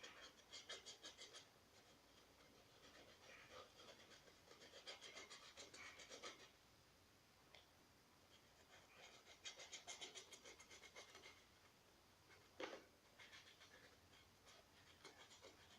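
Faint, quick strokes of a fine paintbrush scratching gouache onto a plastic bottle, in three bursts of rapid strokes, with a single light tap about three-quarters of the way through.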